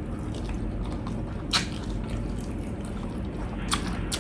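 Close-up eating of fried chicken dipped in creamy mushroom sauce: chewing and biting with sharp mouth clicks, the loudest about a second and a half in and two more near the end.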